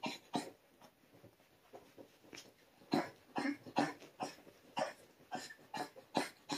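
Toy poodle panting quickly in short breathy puffs, about three a second, with a lull of a couple of seconds after the first second before the panting picks up again.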